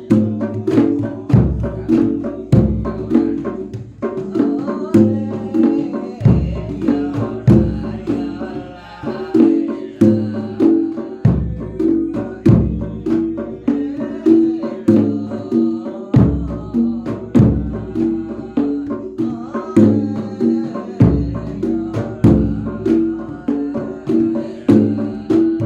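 Javanese folk percussion music driven by a jedor bass drum, its deep strokes falling about once every second and a bit. Over it a pitched melodic figure repeats, with many sharp, quick drum strokes.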